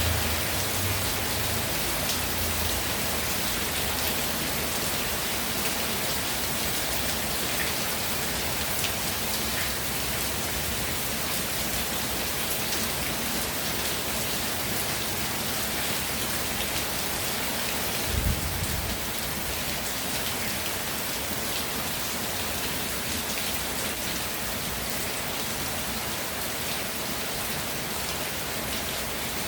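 Steady rainfall, an even hiss of rain with scattered sharp drop hits close by. About eighteen seconds in there is one brief low thump.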